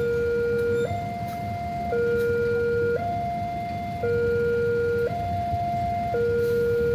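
Railroad level-crossing warning alarm sounding its electronic two-tone signal: a lower and a higher tone alternate, each held about a second, over a steady low rumble.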